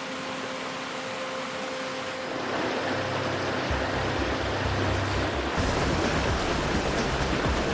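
Steady rushing of a mountain stream. A low, pulsing sound joins about three seconds in.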